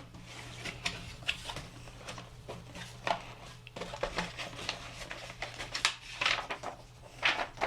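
Cardboard camera box being opened and its contents handled: irregular light taps, rustles and scrapes of cardboard and paper, a few louder ones near the end, over a faint steady low hum.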